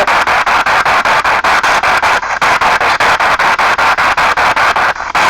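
P-SB7 spirit box sweeping through radio stations: loud hissing static chopped into rapid even steps, about six or seven a second, with brief fragments of broadcast sound, picked up by a laptop microphone. It cuts out briefly twice.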